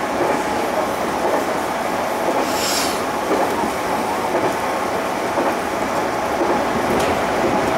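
JR Central 211 series 5000-subseries electric train running at speed: a steady rumble of wheels on rail with motor noise. A brief high hiss about two and a half seconds in.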